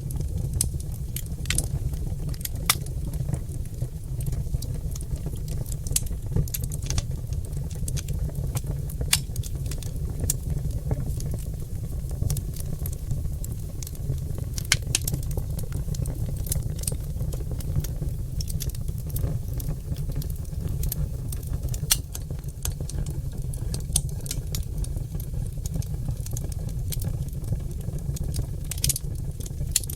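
Oak log fire crackling and popping: many sharp pops scattered irregularly over a steady low rumble of the burning fire.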